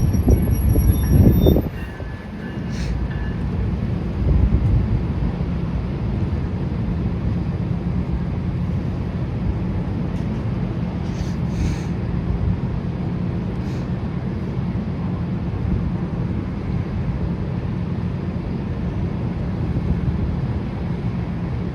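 MARC commuter train's passenger coaches rolling past with a steady rumble of wheels on rail, a thin high wheel squeal in the first second or so, and a few sharp clicks scattered through.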